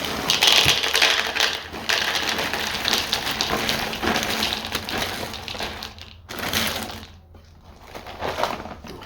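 Dry Cap'n Crunch Crunch Berries cereal poured into a bowl: a dense rattle of hard little pieces lasting about six seconds, then a shorter pour and a few scattered clicks near the end.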